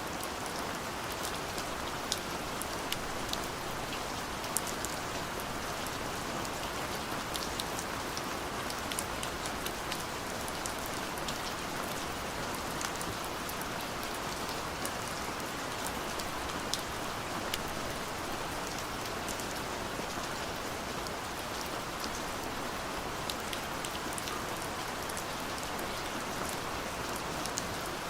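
Steady rain falling, an even wash with many small scattered drop ticks on a hard surface.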